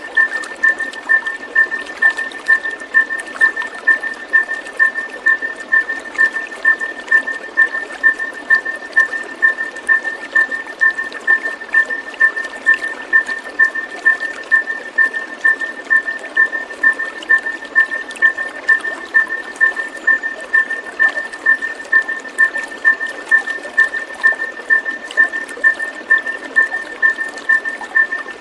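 A steady high note pulsing about twice a second, with a weaker lower note in step, over an even rushing hiss like running water.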